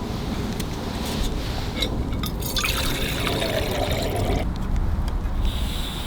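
Hot water being poured into a container to make a beef stew meal, with a filling sound about halfway through; low wind rumble on the microphone.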